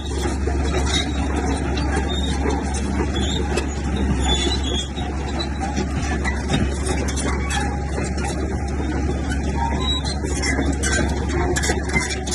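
Komatsu bulldozer running steadily, its diesel engine giving a constant low drone, with rapid clanking from its steel tracks.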